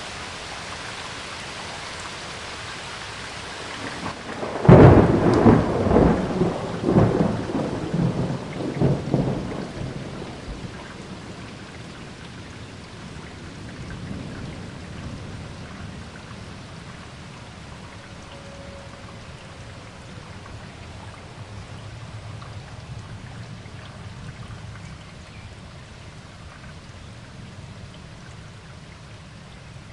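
Steady rain with a clap of thunder about four and a half seconds in: a sharp crack followed by several rolling rumbles that die away over the next five or six seconds, and a fainter low rumble a little later while the rain keeps falling.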